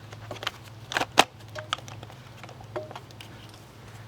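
Scattered light clicks and knocks of motorcycle tail-section parts being handled and fitted, with two sharper knocks about a second in, over a steady low hum.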